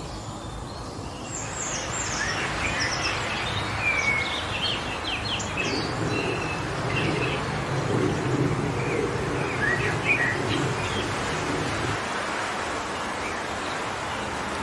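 Wind blowing steadily through forest trees, with small songbirds chirping and calling in quick bursts. A deeper rumble of wind joins about halfway and cuts off suddenly near the end.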